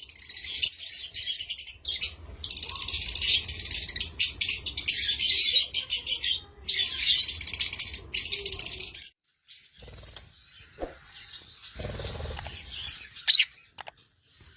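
A flock of lovebirds chattering: dense, rapid, high-pitched chirping that breaks off abruptly a few times. It turns fainter for the last few seconds.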